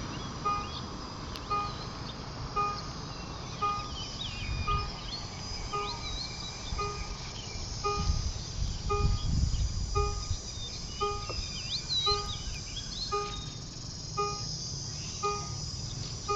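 Railway level-crossing warning beeper sounding a short electronic beep about once a second, with birds chirping over it. A low rumble swells around the middle.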